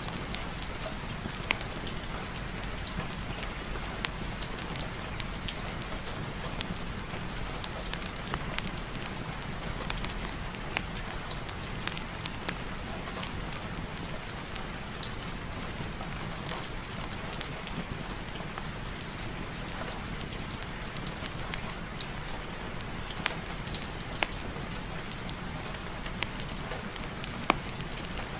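Steady rain falling, with scattered sharp pops and clicks.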